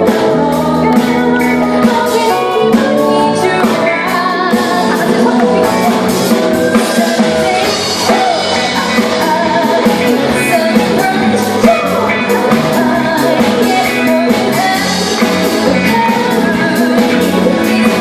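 A live band playing a song with a lead singer: drum kit keeping a steady beat under held chords and a bass line, the vocal sliding between notes.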